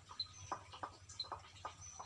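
A dog chewing whole quail, crunching the small bones: a faint, irregular run of short sharp crunches and clicks of teeth on bone.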